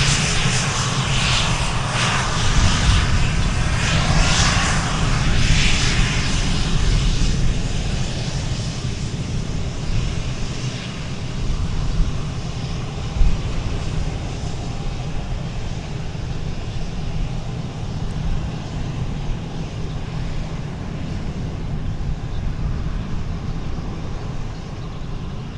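Airplane engine noise, loudest and sweeping in the first several seconds as an aircraft passes, then settling to a steadier, fainter rumble.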